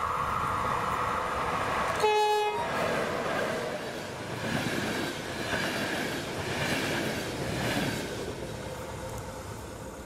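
A passing passenger train's locomotive sounds one short horn blast about two seconds in. Then the coaches run by close, their wheels clattering over the rails in a rhythm about once a second, and the noise fades away near the end.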